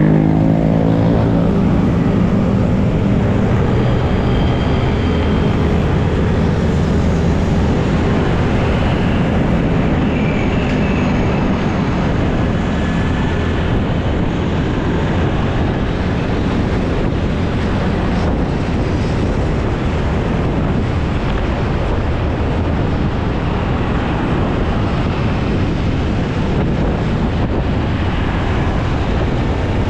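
Honda BeAT carburetted scooter riding along with its engine running. The engine note falls over the first few seconds, then a steady rush of wind and road noise on the dashboard-mounted camera's microphone takes over.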